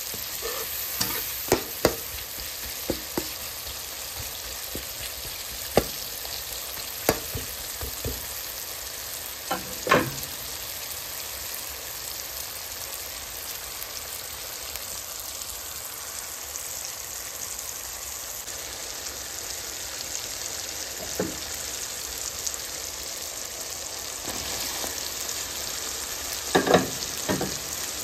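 Chopped tomatoes, onion and green chillies sizzling in oil in a wok, a steady frying hiss. Scattered sharp clacks of the spatula stirring against the pan, with a cluster of louder knocks near the end.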